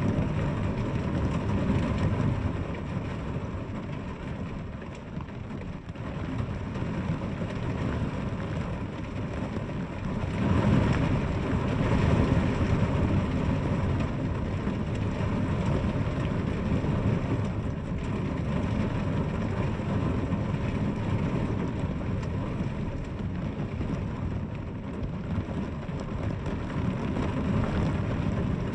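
Steady heavy rain falling, swelling louder for a few seconds about a third of the way through.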